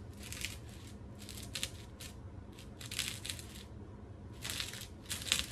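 A concrete chess piece being ground back and forth against plastic wrap, making a series of about seven gritty scrapes.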